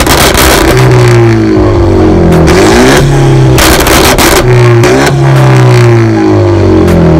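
A car engine being revved hard several times, its pitch climbing and falling back with each rev.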